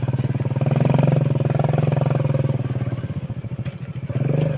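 Small motorcycle engine running under way, a fast steady putter that swells, eases off and picks up again near the end.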